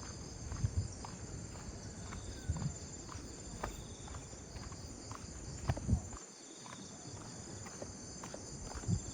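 Tropical insects chirping steadily in several high-pitched tones, with a pulsing chirp that comes and goes, over a walker's footsteps and a few low thumps on the path.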